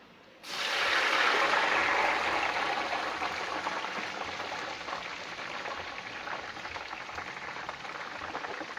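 Food dropped into hot frying oil: a loud sizzle that starts suddenly about half a second in, then slowly eases to a steady frying hiss.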